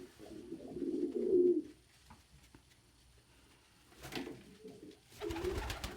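Domestic pigeons cooing in low, rolling warbles; the cooing stops after a couple of seconds and picks up again near the end, mixed with a brief rustle and soft low thumps.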